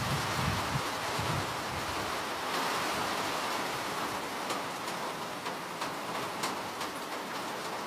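Steady rain: a dense, even hiss with scattered sharper drop ticks, most of them in the second half. A low rumble underneath fades out about a second in.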